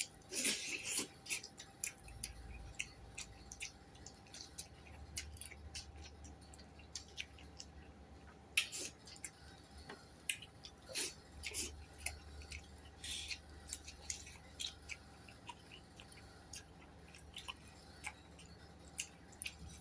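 A person eating close to the microphone: irregular chewing and wet mouth smacks with short clicks, several a second at times, over a faint steady hum.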